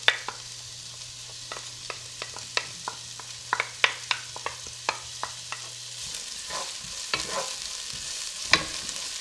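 Diced onions and garlic sizzling in hot olive oil in a pot, with sharp taps and scrapes of a wooden spoon as the onions are scraped from the bowl and stirred in. The sizzle grows louder about six seconds in.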